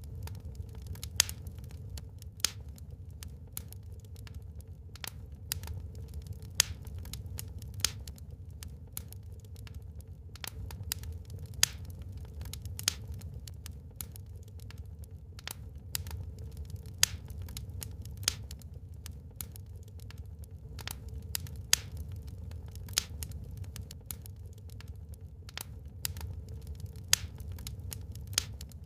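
Wood fire burning in a fireplace: irregular sharp crackles and pops from the burning logs, several a second, a few much louder than the rest, over a low steady rumble.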